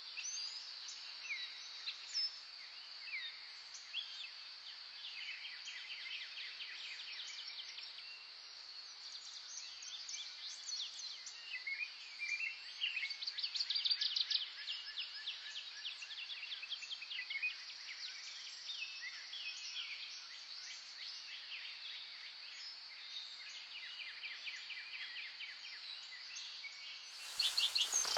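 Several songbirds chirping and singing in short, quick phrases over a steady high insect trill. Near the end comes a loud, brief burst of rapid clicks.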